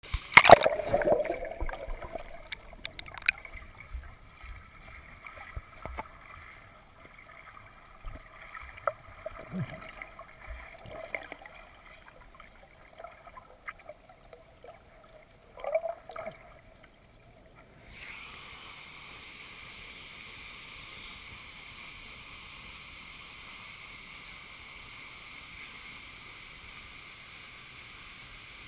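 Moving water with irregular splashes and knocks, then about two-thirds of the way through a sudden switch to a steady rush of falling water from a waterfall.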